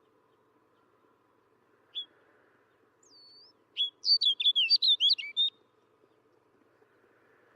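Snow bunting singing: a single short note about two seconds in, a thin whistle, then a quick warbling phrase of rapid high notes lasting about a second and a half.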